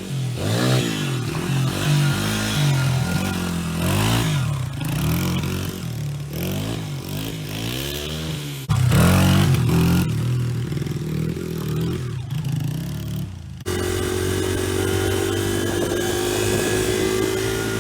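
Honda XR100R pitbike's small single-cylinder four-stroke engine revving hard, its pitch rising and falling again and again. About three-quarters of the way through it switches abruptly to a steadier, even drone.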